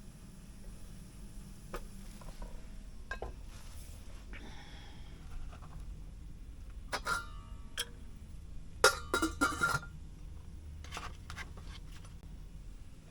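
Cookware and utensils clinking and tapping in a cramped truck cab, over a low steady hum; a few ringing clinks come about seven seconds in and the loudest clatter just before ten seconds.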